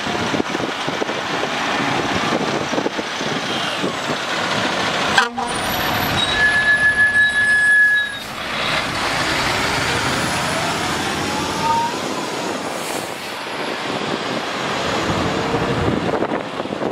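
Fire truck on the move: engine and road noise, a horn blast held for about two seconds after an abrupt cut, then a siren winding slowly up in pitch.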